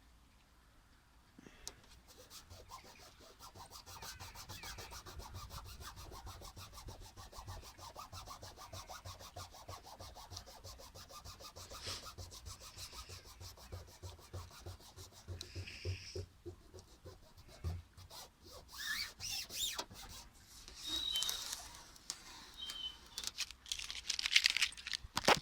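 Rubbing and scraping against a surface. A fast, even run of fine ticks starts after a brief quiet, then gives way to louder, irregular scraping strokes toward the end.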